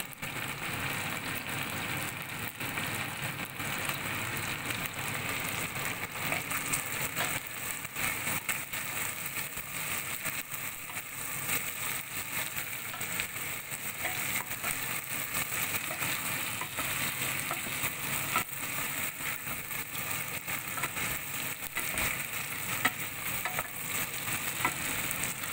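Chicken wings frying in hot oil in a stainless steel pot, sizzling steadily with a fine crackle, while a wooden spatula turns them.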